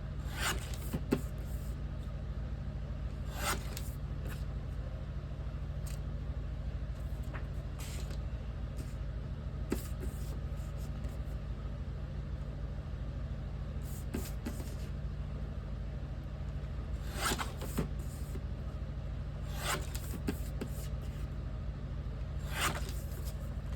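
Photo trimmer cutting photo paper: about five short slicing strokes spread through the stretch, with light clicks of paper being handled, over a steady low hum.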